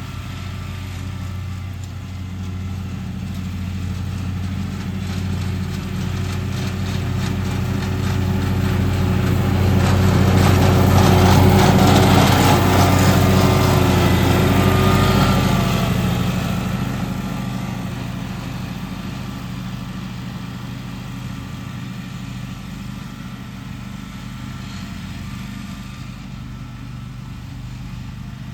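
Lawn mower engine running steadily at an even pitch, growing louder as it comes near, loudest about halfway through, then fading as it moves away.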